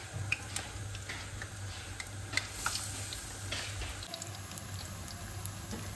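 Battered zucchini flowers frying in sunflower oil in a pan: a steady sizzle with scattered crackles and pops.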